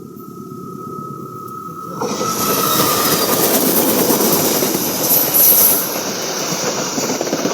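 Diesel-hauled passenger train passing close by: a low rumble, then about two seconds in a sudden loud rush of wheels clattering over the rails, with a high hiss and squeal peaking a little past the middle.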